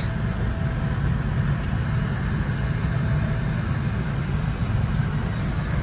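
Steady low rumble of a Boeing 787-9 cabin on the ground during boarding, mostly the air-conditioning and airflow noise, with no clear events.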